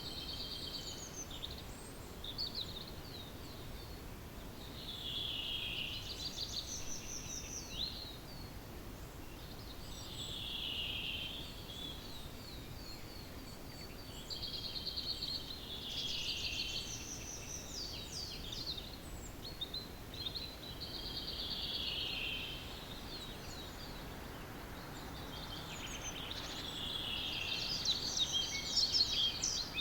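Wild songbirds in a dawn chorus: a short, high song phrase that drops in pitch repeats about every five seconds over faint steady background noise.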